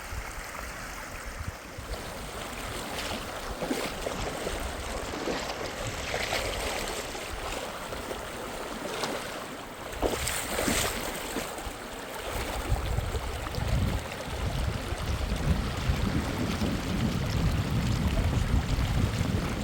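Rushing water of a fast river, a steady noise. From about two-thirds of the way in, wind rumbles on the microphone.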